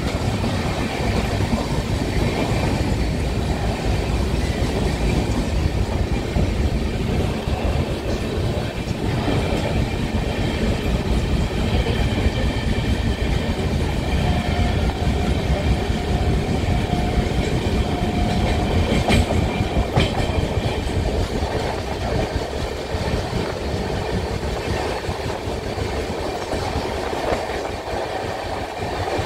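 Passenger train running on its rails, heard from inside the coach at an open window: a steady rumble of wheels on track with clickety-clack. A faint high steady tone is held for a few seconds in the middle, and two sharp clicks come about two-thirds of the way through.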